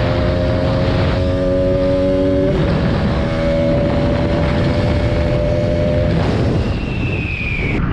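Single-cylinder motorcycle engine running at steady high revs while riding, its pitch shifting slightly twice, with wind rushing on the microphone.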